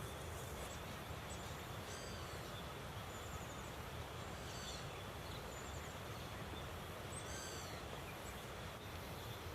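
Steady rush of a river flowing, with a small bird calling over it about six times, each call a quick run of three or four high, falling chirps.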